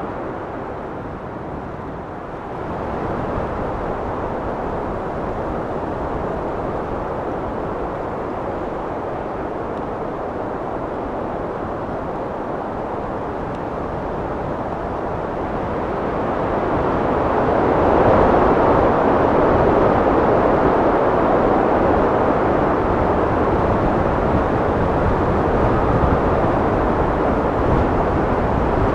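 Wind blowing, a steady rushing with no pitch that swells into a stronger gust about sixteen seconds in and stays louder to the end.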